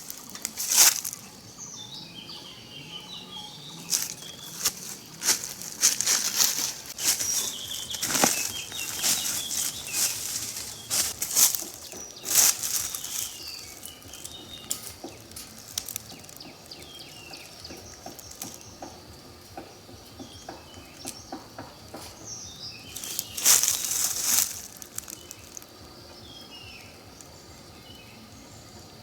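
Irregular bursts of rustling, thickest in the first half and again briefly near the end, with small birds chirping now and then.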